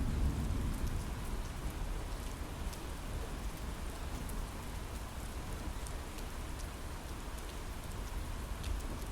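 Steady heavy rain on a window pane, with scattered sharp taps of individual drops hitting the glass over a continuous wash. A low rumble runs underneath, a little stronger in the first second.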